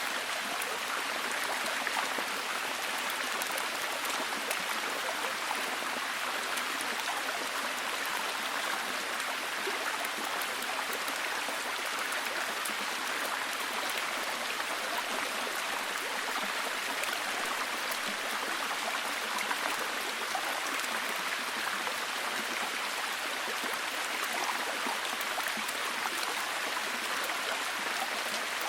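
Steady heavy rain: a dense, even hiss of falling water with many fine drop ticks.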